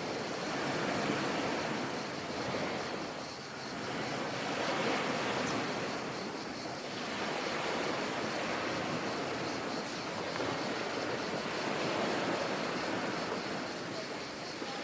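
Sea surf: waves breaking and washing in, the wash swelling and easing every few seconds.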